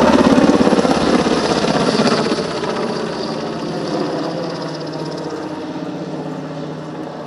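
NH90 helicopter in display flight, its main-rotor chop loudest in the first two seconds and then fading steadily as it moves away.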